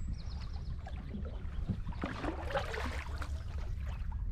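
Canoe paddles dipping and splashing in the water, the splashing strongest around the middle, over a steady low rumble.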